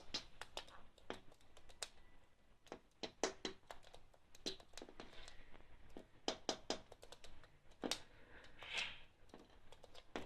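Faint, irregular clicks and taps, sometimes several in quick succession, with a brief soft rustle around the middle and another near the end.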